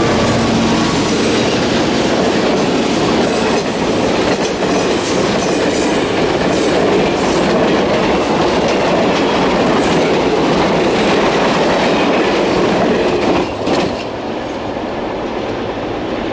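Passenger cars of the Norfolk Southern office car special rolling past at close range. Steady wheel noise with repeated clicks over the rail joints. The noise drops suddenly near the end.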